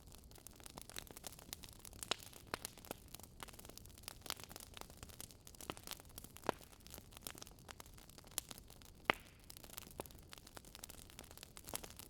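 Crackling wood fire: irregular sharp pops and snaps over a soft steady hiss, a few louder pops standing out.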